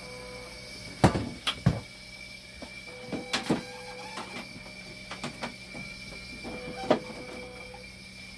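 A machine under repair running with a steady high whine and low hum, short recurring mechanical tones, and irregular sharp knocks and clicks, the loudest about a second in.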